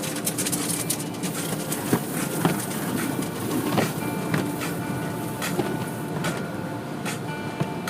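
Car wash machinery running: a steady rushing wash of noise with irregular knocks and clicks and a faint steady machine hum.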